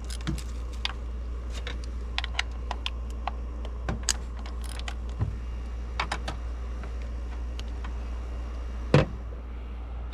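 Hand tools and bolts clicking and clinking while the 10 mm coil-pack bolts on a K24 engine are loosened and removed. The clicks come irregularly, with one louder knock about nine seconds in, over a steady low hum.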